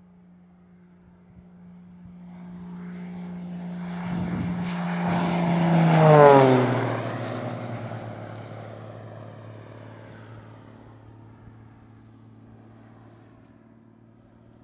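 Beechcraft Bonanza single-engine propeller plane making a low pass at full power. Its engine and propeller sound builds for a few seconds, is loudest about six seconds in with the pitch dropping sharply as it goes by, then fades away at the lower pitch.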